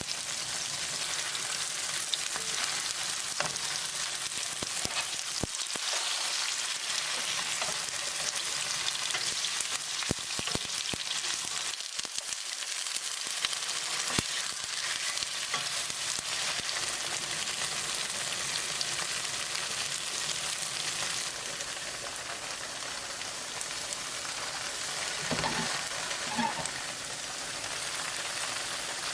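Tofu sizzling as it fries in a pan, a steady crackling hiss with a few light clicks scattered through it.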